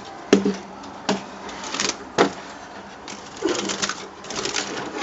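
Small cage birds, finches and a canary, chirping in quick bursts, with sharp clicks and rattles from the cage about three times.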